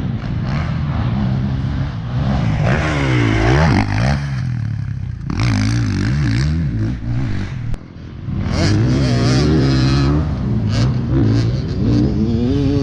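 Dirt bike engine being ridden hard, its pitch climbing and falling over and over as the throttle opens and closes and the gears change. There is a brief drop in level about eight seconds in.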